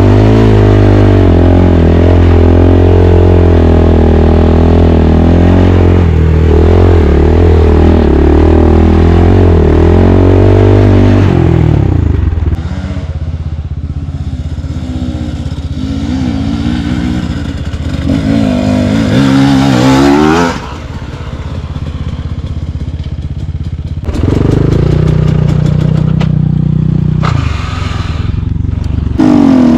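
Enduro motorcycle engine running under way, steady and loud at first, then quieter with revs rising and falling and a sharp rise in revs about two-thirds of the way through, with rattling from the ride.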